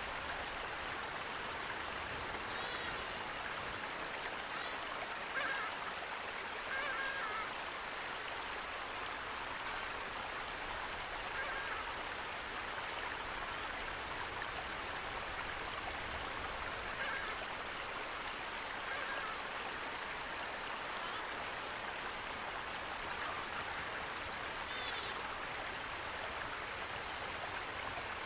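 Steady rush of running water, with a few brief bird calls scattered through it.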